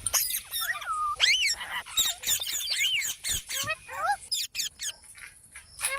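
A parrot calling: a quick string of short chirps and squawks with sharply rising and falling whistled notes. It thins out to a few clicks in the last couple of seconds, then a louder call starts right at the end.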